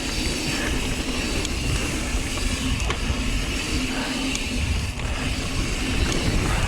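Mountain bike being ridden on a dirt trail: rumbling wind on the action-camera microphone with tyre and rolling noise, and a few small knocks and rattles from the bike.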